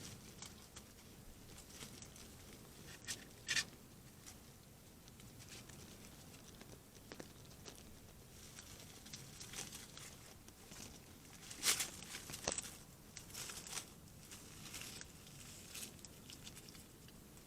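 A hedgehog making short, scattered noisy sounds at irregular intervals, loudest about three and a half seconds in and again about twelve seconds in.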